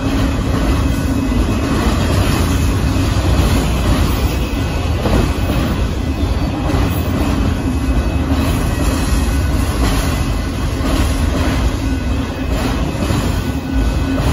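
Union Pacific freight train of autorack cars rolling steadily past: a loud, continuous rumble and clatter of steel wheels on the rails.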